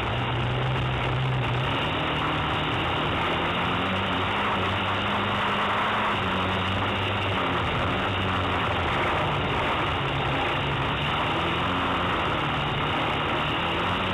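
Autocross car's engine heard from inside its cockpit while racing on a dirt track, its pitch shifting up and down several times as the driver accelerates and lifts, under a steady rushing noise.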